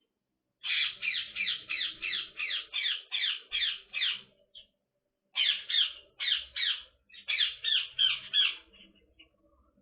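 Indian ringneck parakeet calling in rapid runs of short, falling squawks, about three to four a second, in three bouts separated by brief pauses.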